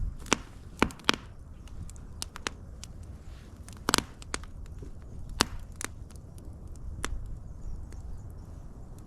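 Wood fire crackling, with irregular sharp pops and snaps over a low rumble of burning, the loudest pops about a second in and about four seconds in.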